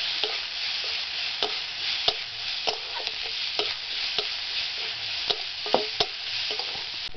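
Sliced onions, garlic and whole dried red chillies sizzling steadily in hot oil in a metal kadai, while a metal spatula scrapes and clicks against the pan about every half second as they are stirred and fried down until reddish-brown.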